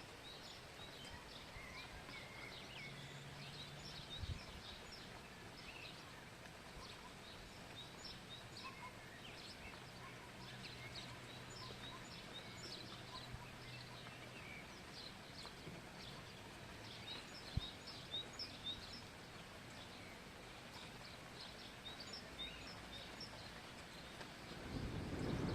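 Many small birds chirping and twittering faintly over a quiet outdoor background with a low steady hum and a couple of soft knocks. Near the end a loud low rumble swells up, the start of a roll of thunder.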